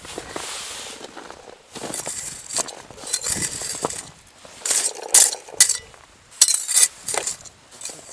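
Irregular crunching of snow and ice with sharp clinks, a dozen or so short bursts that come thicker in the second half.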